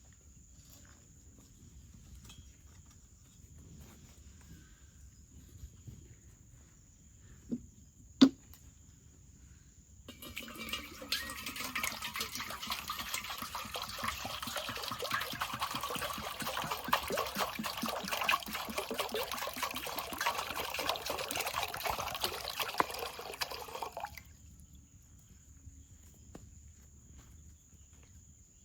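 Two sharp knocks about eight seconds in, then a dense trickling, splashing liquid sound that starts suddenly about ten seconds in and stops suddenly some fourteen seconds later.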